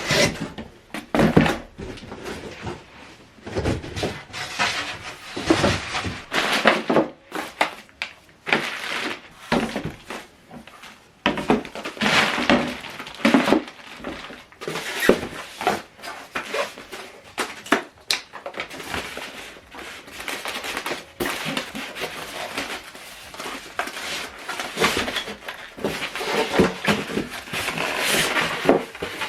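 Cardboard and packing material being handled while a subwoofer is unpacked from its box: irregular rustling and scraping with scattered knocks and thuds.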